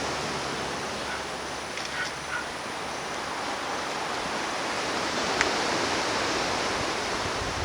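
Steady wash of ocean surf on a beach. A few short, faint chirps sound about two seconds in, and a single sharp click comes near the middle.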